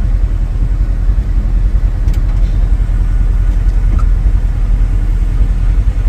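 Steady low rumble, with faint clicks about two and four seconds in.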